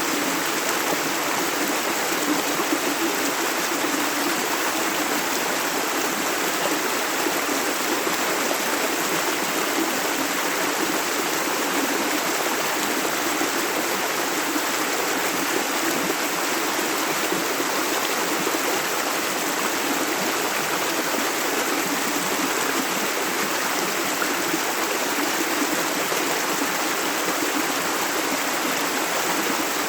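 A shallow river running over stones: a steady, even rush of water, with no breaks or changes.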